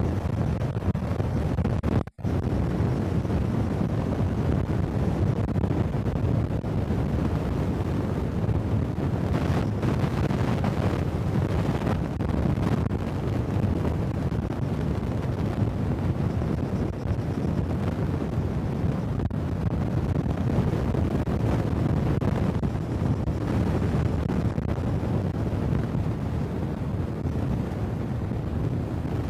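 Steady noise like wind on the microphone, with a split-second dropout about two seconds in.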